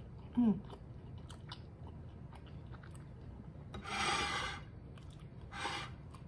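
A person chewing a mouthful of egg roll, with soft wet mouth clicks. A short, falling "mm" hum comes about half a second in, then two breathy puffs of air blown out through pursed lips, the louder one about four seconds in and a shorter one near the end.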